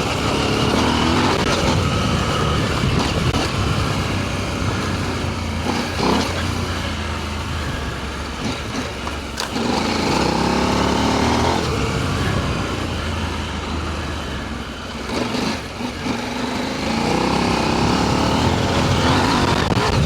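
Adventure motorcycle engine running under load on a dirt trail, the revs rising and falling a few times, over a steady rush of noise.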